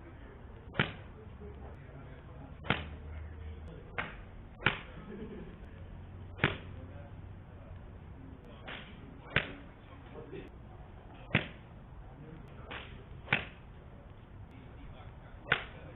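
Golf clubs striking golf balls on a driving range: about eleven sharp cracks at uneven intervals, one every one to two seconds, over a low steady background hum.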